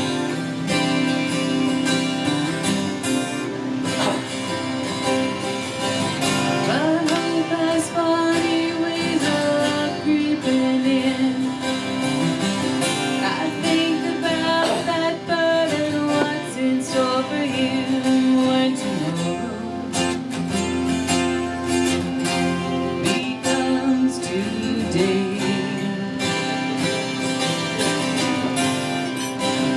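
Live acoustic guitar with a woman singing.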